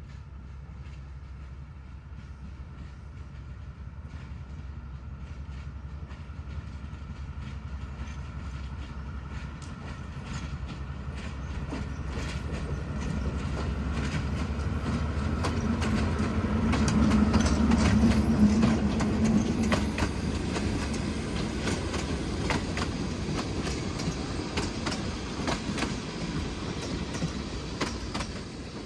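Narrow-gauge diesel locomotive and passenger coaches passing by. The engine's steady drone grows louder, peaks a little past the middle with the wheels clicking over the rail joints, then fades away.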